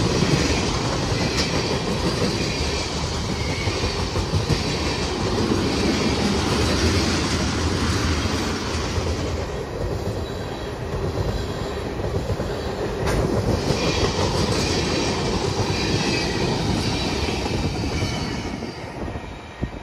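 Freight train of tank cars rolling past close by: a continuous rumble of steel wheels on the rails, easing off slightly near the end.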